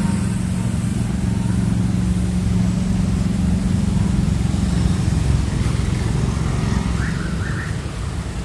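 A motor vehicle's engine running steadily with a low hum that weakens about five seconds in.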